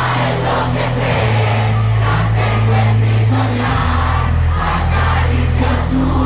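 Live reggaeton concert music over a stadium sound system, with a heavy sustained bass line and a steady beat, and a crowd singing along.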